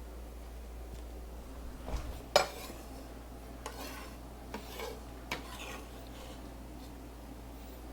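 A few scattered knocks and clinks of dishes and kitchen utensils being handled, the loudest about two and a half seconds in.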